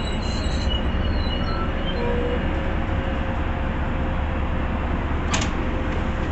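MBTA commuter rail train rumbling steadily at the station, with one sharp click about five seconds in.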